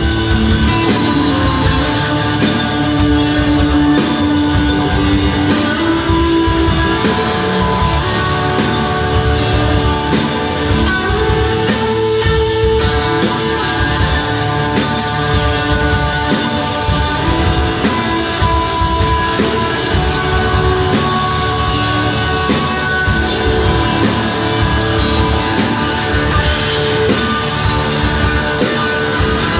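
A rock band playing live: guitars with sustained chords and melody over a drum kit keeping a steady beat.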